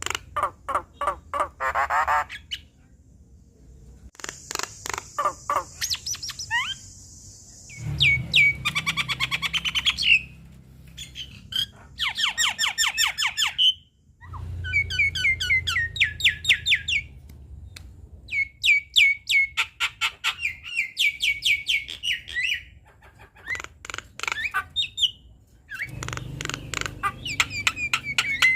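Javan myna singing a long, varied chattering song: quick runs of rattling, clicking notes and sharp squawks, in bouts of a few seconds each with short pauses between.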